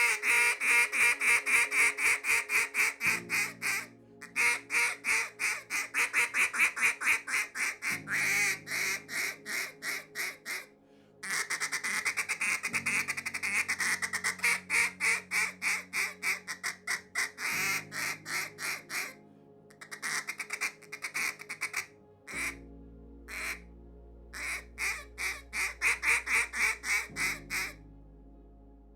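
Elite Cache single-reed duck call blown in runs of raspy, rapid quacks with short pauses between runs, over soft background music.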